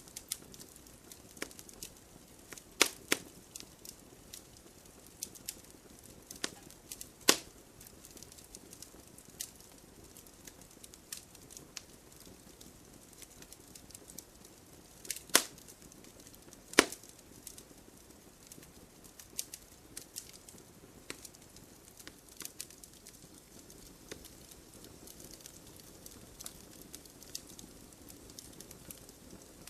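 Wood campfire crackling: irregular sharp pops and snaps over a soft hiss, with a few louder cracks scattered through.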